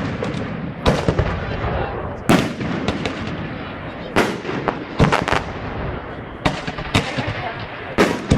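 Fireworks going off: loud sharp bangs about once a second, sometimes two close together, over continuous crackling.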